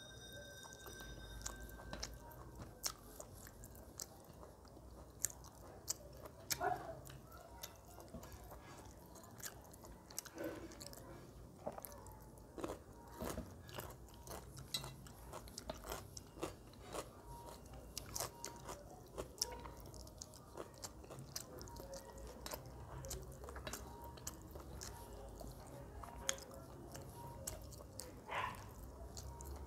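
A person chewing and biting mouthfuls of chicken leg curry and rice, with many small irregular clicks of lips and teeth.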